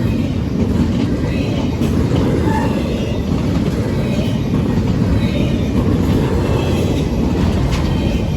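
Double-stack intermodal freight train rolling past: a steady, loud rumble of steel wheels on rail.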